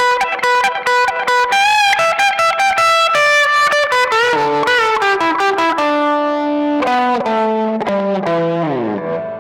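Electric guitar playing a fast single-note lead line with string bends, then a run of notes stepping steadily downward in pitch that stops abruptly near the end.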